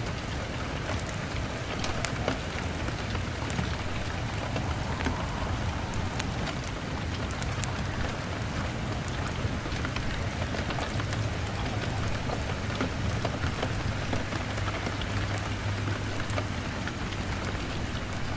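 Steady heavy rain on a window pane, with frequent sharp ticks scattered through it over a low, steady rumble.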